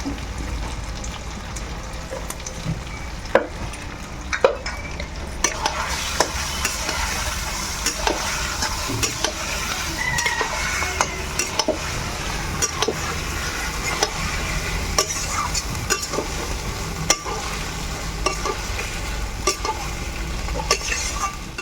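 Chicken pieces and freshly ground spice paste sizzling in a kadai while a spatula stirs them, with frequent short clicks and scrapes of the spatula against the pan. The meat is being dry-fried with the masala, the kasha stage of the curry. The sizzle grows louder about five seconds in.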